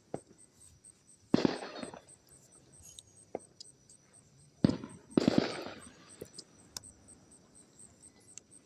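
Fireworks bursting: three sharp bangs, one about a second in and two close together near the middle, each dying away over about half a second.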